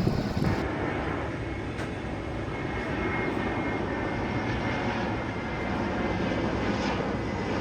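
Jet airliner engines running, a steady rush of noise with a faint high whine.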